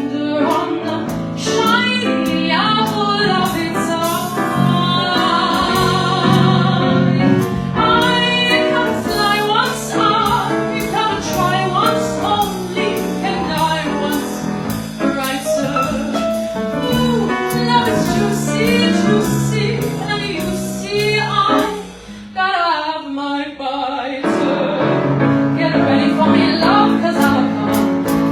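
A woman singing a show tune with accompaniment, holding one long note with vibrato a few seconds in. The music dips briefly about two-thirds of the way through, then returns fuller.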